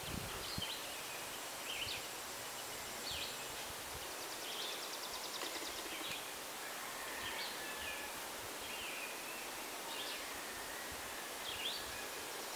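Songbirds calling in short, high chirps, one every second or so, with a brief rapid trill about five seconds in, over a steady outdoor hiss.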